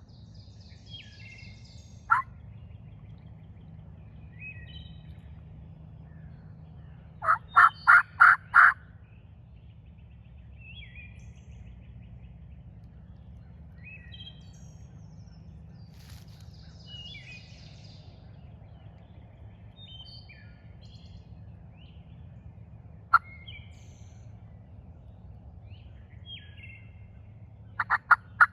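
Eastern wild turkey gobbler gobbling: one full rattling gobble about seven seconds in and another starting near the end, with single short sharp calls between.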